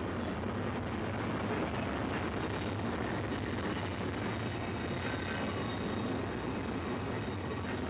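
Double-stack intermodal train's well cars rolling past, a steady rumble of steel wheels on rail with a thin high squeal from the wheels that grows a little stronger near the end.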